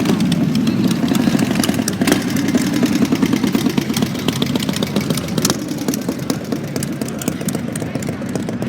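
Motorcycle engines idling: a steady low rumble with rapid exhaust pulses that eases a little in the second half.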